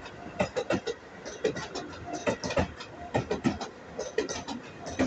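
Train of Tobu 10030-series cars hauled by an electric locomotive rolling past slowly, its wheels clicking and clanking irregularly over rail joints and points, several knocks a second over a low rumble.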